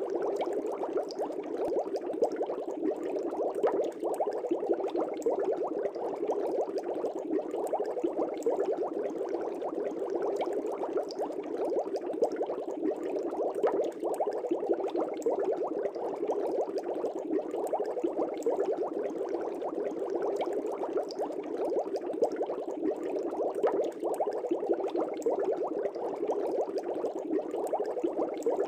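Air bubbles rising and popping in an aquarium, a steady dense bubbling with scattered small pops.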